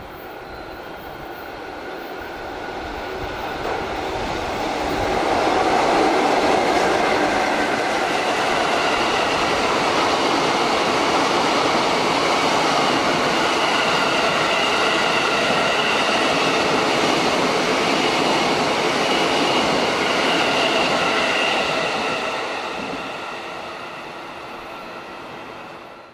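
A locomotive hauling a delivery of new Tsukuba Express cars past the platform. The rumble and clatter of wheels on rail grows over the first six seconds as the train nears, then holds steady with a high whine on top as the towed cars roll by. It fades near the end and cuts off abruptly.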